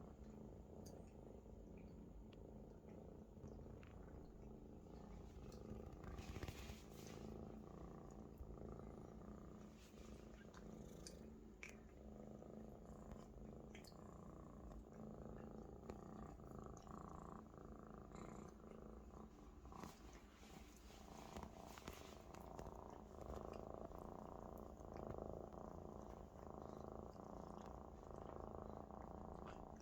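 Maine Coon kitten purring steadily, with a few faint clicks over it.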